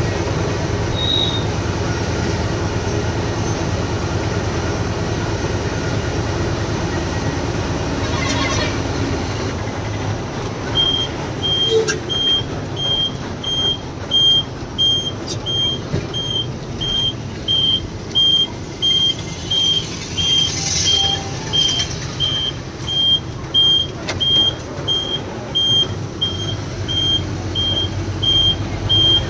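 Heavy truck's engine running, heard from inside the cab. About ten seconds in, a high electronic beep starts repeating steadily, about one and a half times a second, and goes on to the end.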